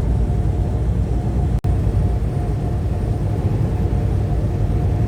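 Semi-truck engine running with a steady low rumble and a faint steady whine above it; the sound cuts out for an instant about one and a half seconds in.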